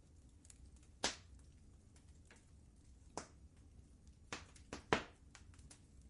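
Wood fire crackling: scattered sharp pops and snaps at irregular intervals over a faint low rumble, the loudest pops about a second in and just before the five-second mark.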